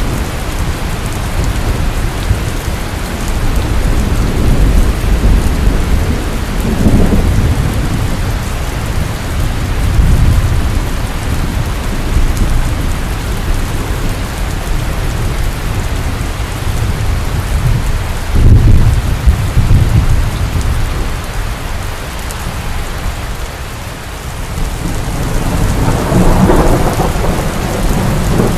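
Heavy rain pouring steadily with rolling thunder, low rumbles swelling and fading several times, the strongest about two-thirds of the way through and another near the end.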